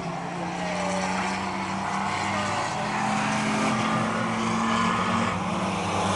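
Stock race trucks running laps at race speed on a short oval: a steady drone of several engines, growing a little louder toward the end.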